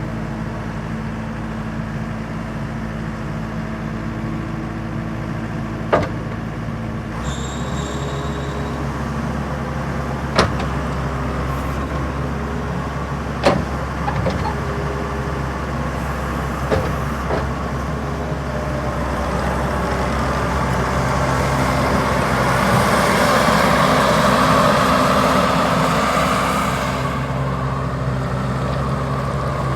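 Mustang MTL25 skid steer's diesel engine running steadily. Its note changes about seven seconds in, a few sharp knocks sound through the middle, and it grows louder and hissier for several seconds near the end.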